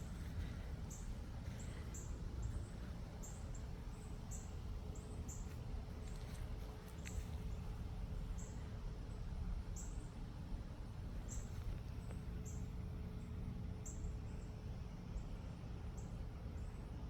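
Crickets chirping: short high chirps repeating irregularly, about one or two a second, over a steady low rumble.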